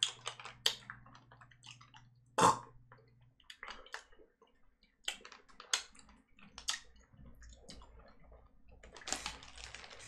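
Quiet chewing of candy with scattered small mouth clicks, and one louder sudden noise about two and a half seconds in. Near the end a plastic bag rustles.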